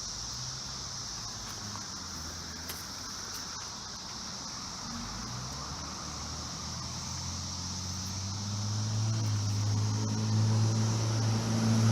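Steady high-pitched chorus of cicadas, with a low engine hum that grows louder over the last few seconds.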